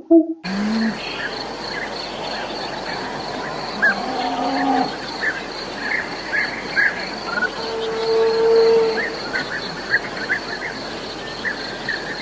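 Cattle mooing three times, about half a second, four seconds and eight seconds in, the last one higher and longest. Short bird chirps repeat and a steady high insect drone runs underneath.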